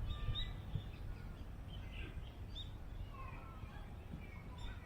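Small birds chirping over and over in short, scattered calls, over a steady low rumble of wind on the microphone.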